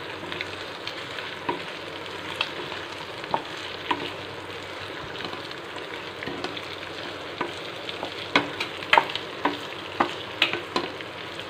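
Chicken pieces with onion, dried red chillies and coconut sizzling in oil in a nonstick frying pan as a wooden spatula stirs them, knocking and scraping against the pan. The knocks come more often in the last few seconds.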